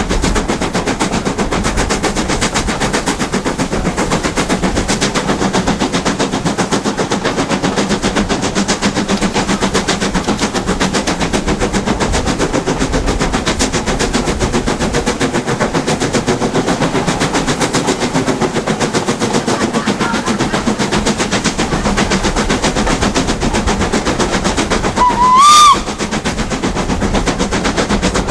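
LNER B1 class 4-6-0 steam locomotive working hard uphill, its exhaust beats coming in a fast, steady rhythm. Near the end it gives one short, loud whistle blast lasting about a second.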